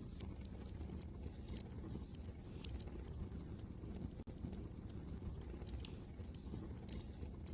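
Wood fire crackling in a fireplace, irregular sharp pops and snaps over a steady low rumble of wind.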